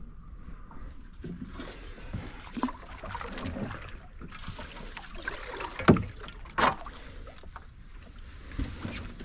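Kayak paddling: the paddle dips and splashes through the water in irregular strokes, with two sharp knocks about six seconds in.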